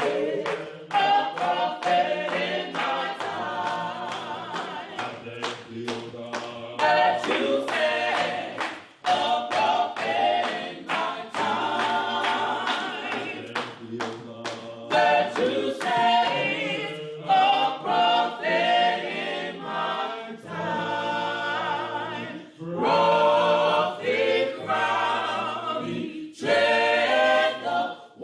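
Church choir singing a cappella gospel, voices without instruments.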